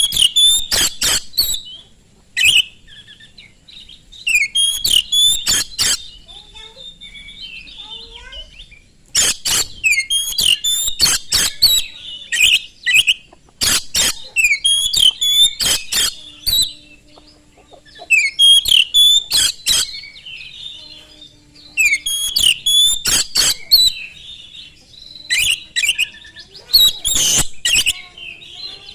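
Oriental magpie-robin (kacer) singing hard: fast, loud phrases of whistled notes mixed with sharp, harsh clicking strokes, delivered in bursts separated by short pauses.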